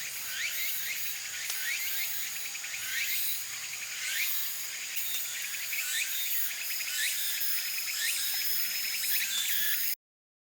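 Insects chirping and buzzing in a dense, high-pitched chorus, with short chirps repeating about every second over a steady high drone; it cuts off suddenly near the end.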